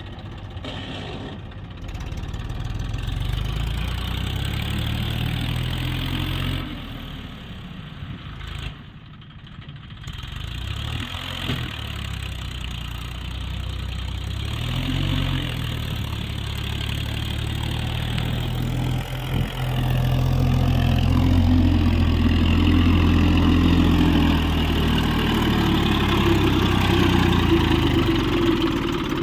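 Tractor engine running, its speed rising and falling; it drops back briefly about a third of the way in, then runs louder through the last third.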